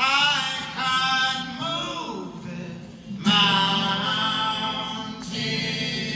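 Live male voices singing in close harmony with little or no accompaniment, holding sustained chords. A new chord comes in sharply at the start, again about three seconds in and again about five seconds in.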